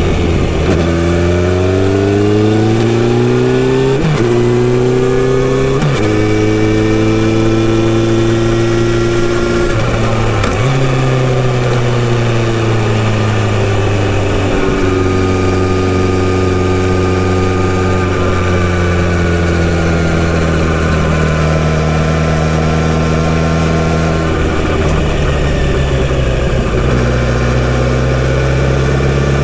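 Kawasaki Z900RS inline-four with a full-system exhaust, under way. It accelerates through the gears, with two upshifts about four and six seconds in. Then it eases off and the engine note falls, settling into a steady, lower cruise.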